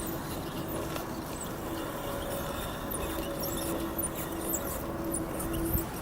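Small electric motor and gearbox of an RC scale crawler whining on and off as it creeps along, with scattered small ticks and crackles and a thump near the end.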